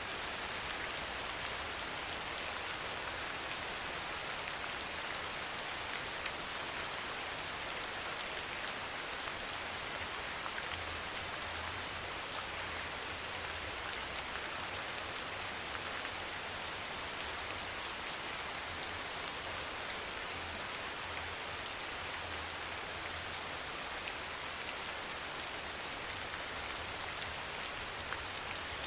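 Steady rain falling, many fine drop ticks over an even, continuous hiss.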